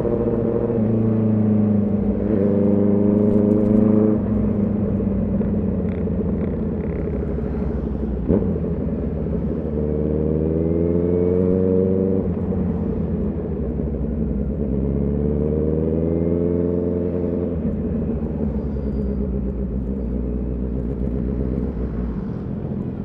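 Honda CB650R inline-four engine and exhaust on the move, pulling up through the revs three times, each climb ending in a sudden drop at a gear change, with steady running between. A single sharp knock about eight seconds in.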